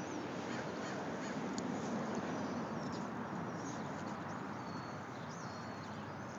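Birds calling outdoors: a few short, high chirps over a steady background hiss.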